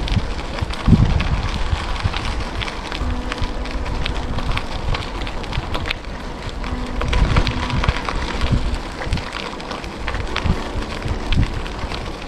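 Wind buffeting the microphone while riding a bicycle, an uneven low rumble with many scattered crackles and clicks.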